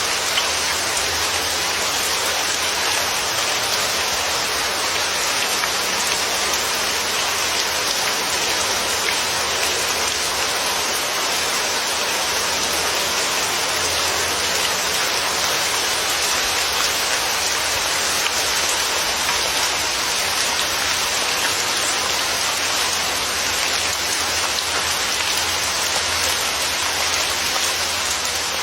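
Steady heavy rain falling and pattering on surfaces, a constant even hiss of drops.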